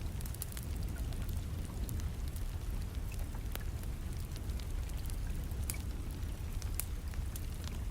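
Wood fire crackling with scattered sharp pops at irregular intervals, over a steady rumble and hiss of rain.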